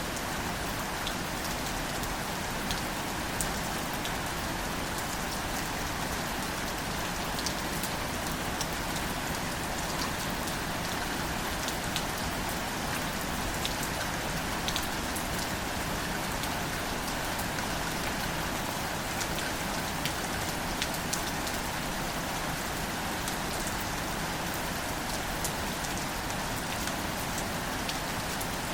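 Steady light rain falling on plants, an even hiss with scattered individual drop ticks.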